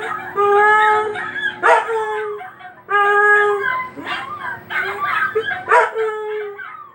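A pet dog howling. There are two long, held howls of about a second each, one near the start and one about three seconds in, with shorter, wavering yelps between them.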